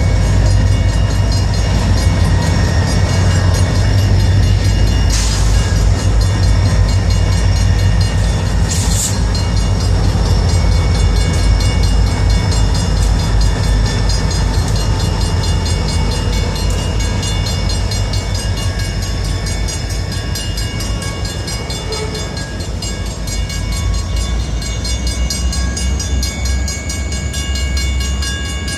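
Train passing close by, very loud: a steady heavy rumble with several steady high-pitched tones ringing above it, and two brief bursts of noise about five and nine seconds in.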